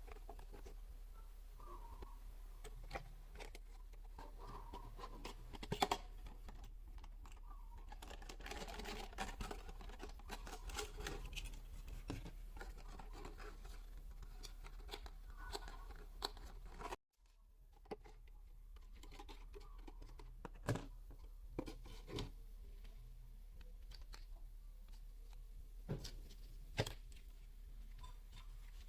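Scattered clicks, scratches and rustling from hands handling a toy and its packaging, over a steady low hum.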